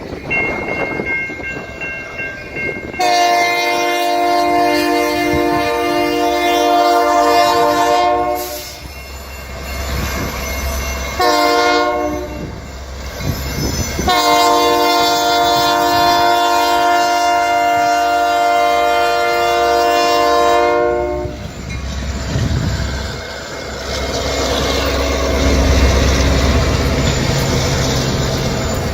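Union Pacific freight locomotive's Nathan K3LA five-chime air horn sounding a long blast, a short one and another long one. After the horn stops, the passing train's rumble and the clack of its wheels over the rails.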